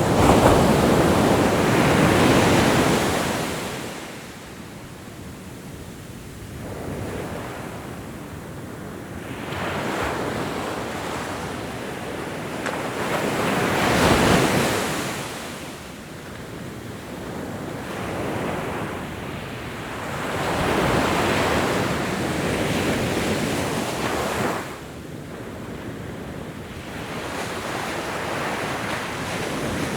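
Ocean surf: waves rushing in and washing back in about four slow surges, the loudest near the start and around the middle, with a sudden drop-off late on.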